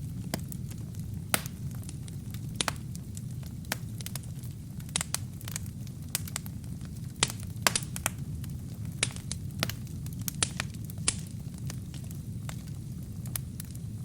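Burning wood in a fireplace crackling, with sharp irregular pops and snaps over a steady low rumble of flame.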